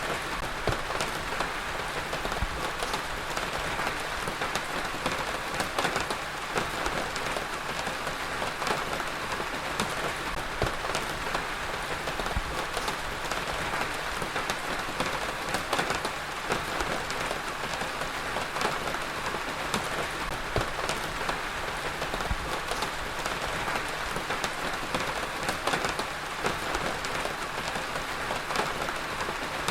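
Steady heavy rain falling on a hard surface, with the dense ticking of individual drops striking.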